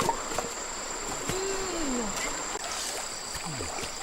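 Steady rushing water with a thin, steady high whine over it, and a short falling tone about a second and a half in.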